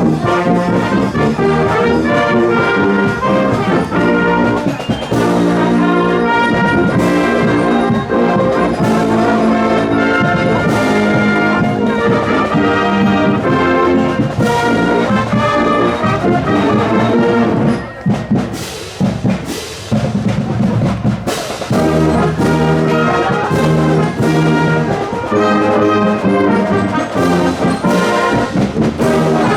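Marching wind band playing in a parade: brass, with trombones and trumpets prominent, over regular sharp beats. The playing drops briefly to a softer passage a little past the middle, then comes back full.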